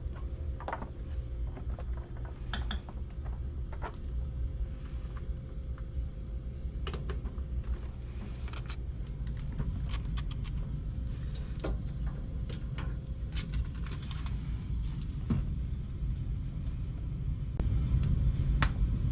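Plastic wire-harness connectors and wiring being handled and clicked into place on a washer's main control board, a scatter of sharp clicks and taps that come thickest in the middle, over a steady low rumble.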